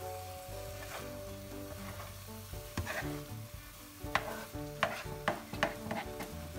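Scrambled egg and tomato sizzling in a frying pan while a nylon spatula stirs and scrapes it. Sharp clicks of the spatula knocking the pan come more often in the second half.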